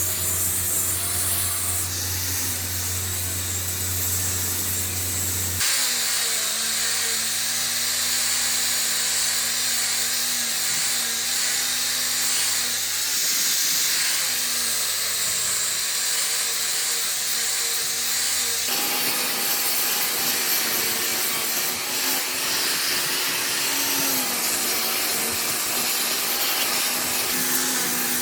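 An electric power tool running on wood: a steady whir with a strong hiss, its pitch wavering slightly as the load changes. The sound's character shifts abruptly twice, about six and nineteen seconds in.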